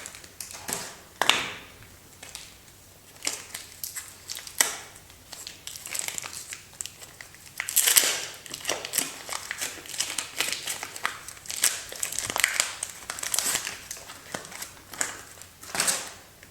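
Soap packaging crinkled and torn open by hand: irregular rustling and crackling, in stops and starts, loudest about halfway through, then it stops abruptly near the end.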